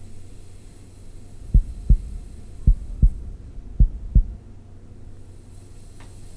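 Korotkoff sounds from the brachial artery, heard through a stethoscope as the blood pressure cuff deflates: three heartbeats, each a pair of low thumps about a second apart, that begin a second and a half in and stop after about four seconds. The first beat marks the systolic pressure and the point where they stop marks the diastolic, over a steady low hum.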